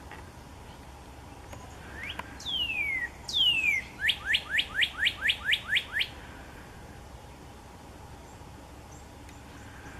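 A songbird singing: two long, clear whistles sliding down in pitch, then a quick, even run of about nine shorter downslurred notes, around four a second.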